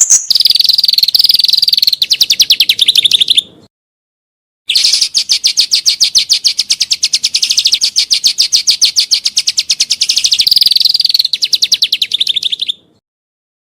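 Songbird singing rapid trilled phrases of about a dozen sharp notes a second, loud and high. There are two long bursts, a short one and then a longer one after a brief pause, each stopping abruptly.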